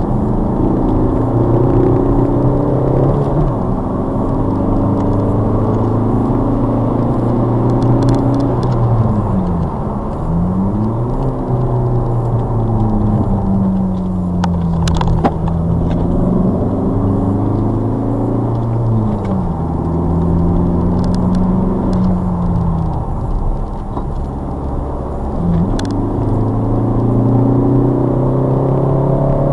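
Ford Focus ST diesel's 2.0-litre four-cylinder turbodiesel engine under hard track driving, heard from inside the cabin. The revs climb repeatedly, drop at gear changes and ease off for corners, with a sharp dip and pull back up about ten seconds in.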